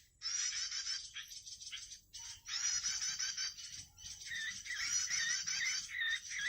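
Small songbird song in fast, high-pitched chattering trills, coming in bouts with short pauses.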